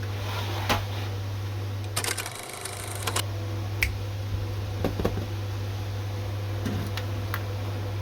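Scattered sharp clicks and taps from a diecast model car being handled, with a quick flurry of clicks about two seconds in, over a steady low hum.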